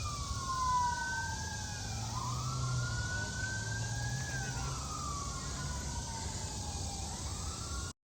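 Emergency vehicle sirens wailing, at least two overlapping, each pitch slowly rising and falling over a few seconds, over a low steady background rumble; the sound cuts off abruptly near the end.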